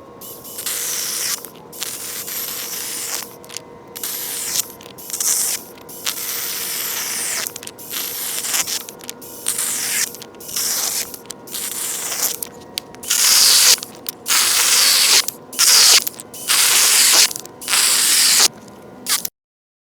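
Firewood being cut with a saw in a run of short, noisy strokes, irregular at first, then louder and more regular at about one a second, stopping abruptly near the end.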